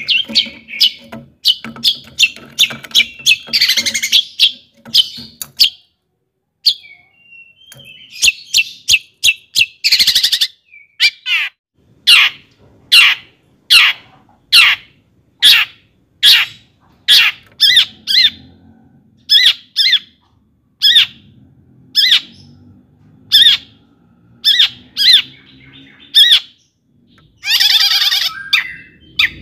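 Long-tailed shrike singing: a long run of sharp, evenly spaced piercing notes, about one every half second or so, broken by harsh, scratchy chattering bursts.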